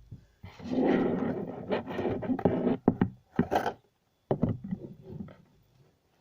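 Rubbing and scraping handling noise as slime tubs are handled, followed after about three seconds by a few sharp clicks and taps.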